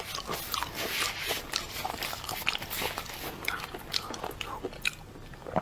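Close-miked chewing and crunching while eating seafood such as shrimp and crab: a rapid run of crackling bites and wet mouth clicks that thins out over the last second or so.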